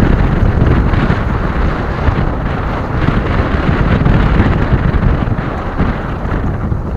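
Gusty wind buffeting the microphone: a loud, low rumbling noise that swells and eases.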